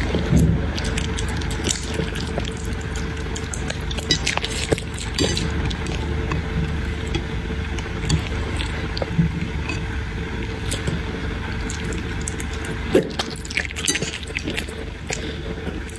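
A puppy eating soft food: scattered wet smacking and clicking sounds throughout, over a steady low hum.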